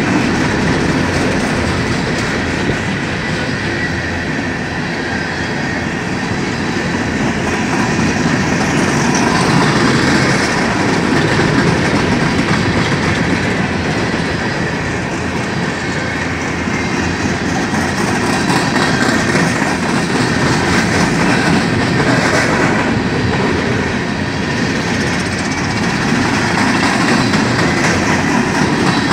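Loaded-or-empty coal train's gondola and hopper cars rolling past at close range: a steady, loud noise of steel wheels on rail, with repeated clicking of wheels over the rail joints, swelling and easing slightly as cars go by.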